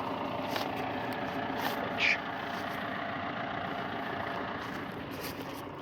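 Farm tractor engine running steadily, with a brief high squeak about two seconds in.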